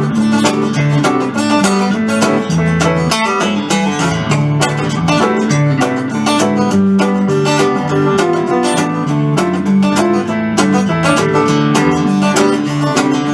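Instrumental break of an up-tempo country song: rapid picked notes on acoustic guitar and banjo over a steady bass line.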